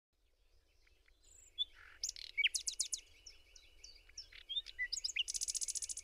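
Songbirds chirping and singing, fading in over the first couple of seconds: short chirps and quick falling whistles, then a fast trill of rapidly repeated notes near the end.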